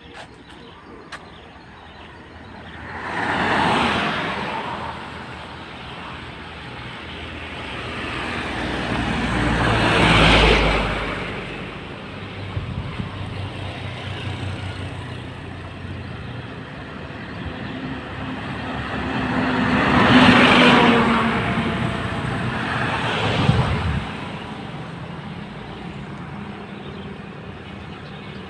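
Road traffic passing: four vehicles go by one after another, each swelling up and fading away. The second one has a deep low rumble.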